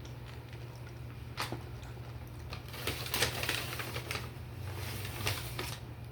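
Close-up crunching and crackling of crispy fried chicken sandwich being bitten and chewed. It starts with a few sharp clicks and thickens into dense crackling from about halfway in, over a steady low hum.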